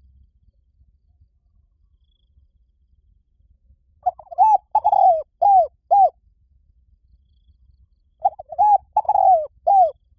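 Spotted dove cooing: two phrases of four or five arching, down-slurred coos, the first starting about four seconds in and the second near the end.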